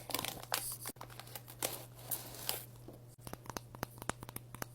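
Plastic candy bag crinkling and rustling, then from about three seconds in a quick run of sharp, crisp crackles.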